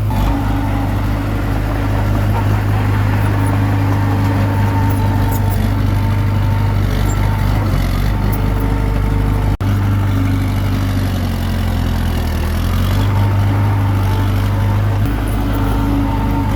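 Komatsu D21P bulldozer's diesel engine running steadily under work, its pitch sagging briefly and recovering a little past the middle as the load comes on.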